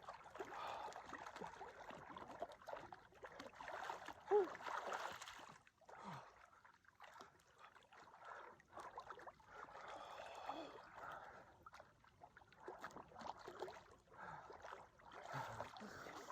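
Lake water splashing and sloshing in irregular patches, faint, with one brief louder sound about four seconds in.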